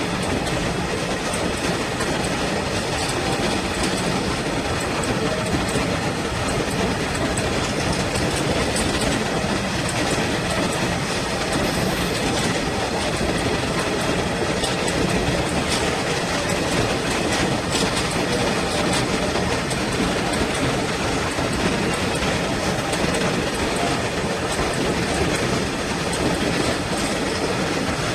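A train running on rails, a steady rumble of wheels on track with scattered clicks over the rail joints.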